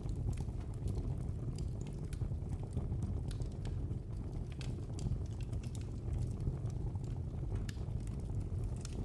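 Fire in a fireplace crackling: irregular sharp pops and snaps, several a second, over a steady low rumble of the flames.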